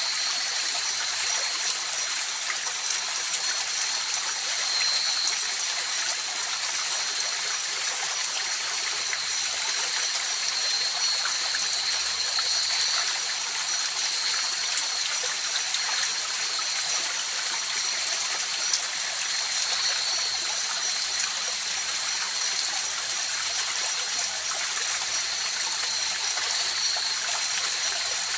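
River water flowing steadily, an even rushing hiss, with a thin, steady high-pitched tone running above it.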